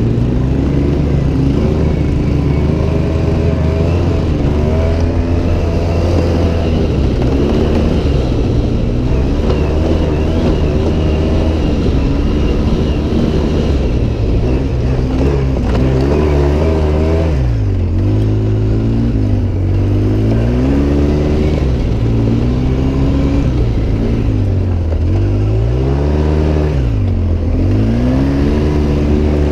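Off-road vehicle's engine running hard over sand dunes. Its pitch holds fairly steady at first, then drops and climbs again several times in the second half as the throttle is let off and opened.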